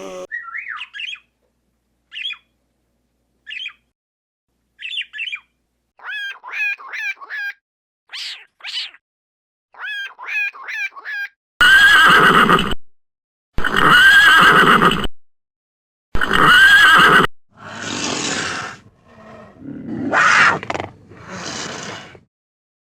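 Animal calls: for the first half, short chirping calls in quick runs; then three loud calls about two seconds apart; then rougher, noisier calls near the end.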